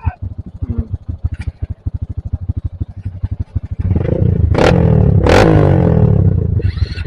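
Trail motorcycle engine idling with an even, rapid beat, then revved up about four seconds in and easing back, with two sharp cracks during the revving.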